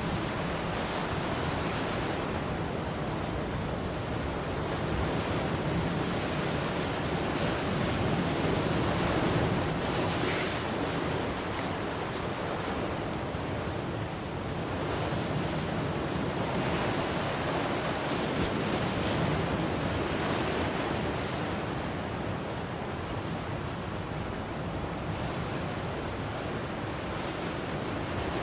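Ocean surf: waves breaking and washing in continuously, with the rush swelling and easing every several seconds.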